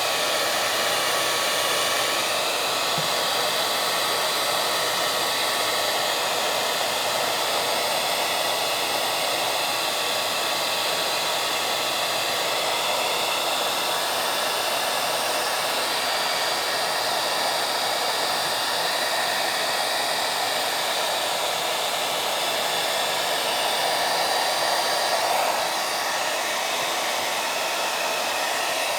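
Steady rushing noise of a small motor-driven blower, with a faint whine over it, running without a break.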